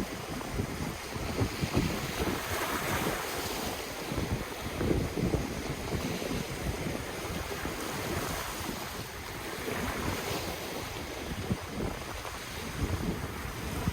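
Ocean waves washing onto the shore in slow surges, with wind buffeting the microphone in low rumbling gusts.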